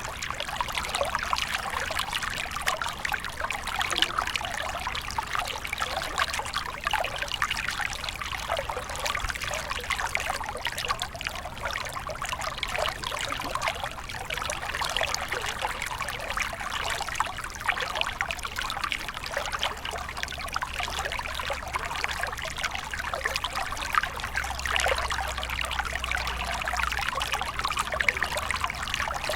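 Small stream flowing over stones, a steady trickling, splashing rush of water.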